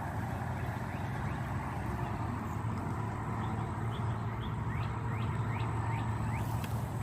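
Steady low hum of distant road traffic, with a small bird giving a run of short, high chirps through the middle.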